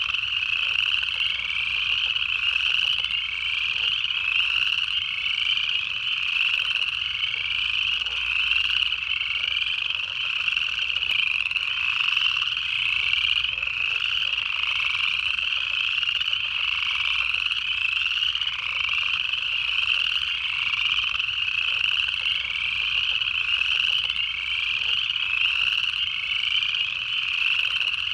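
Dense chorus of upland chorus frogs, many ascending trills overlapping and repeating about once a second.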